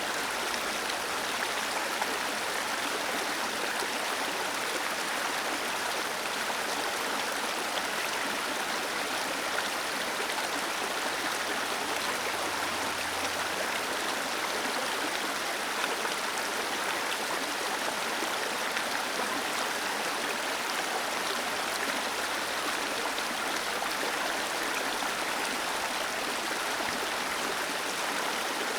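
Small waterfall cascading over rocks: a steady, even rush of falling water with no change throughout.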